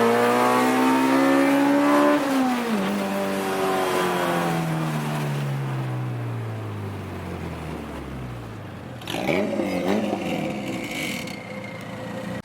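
Car engine rising in pitch for about two seconds, then falling steadily in pitch and fading over about six seconds. A second, wavering engine sound comes in about nine seconds in.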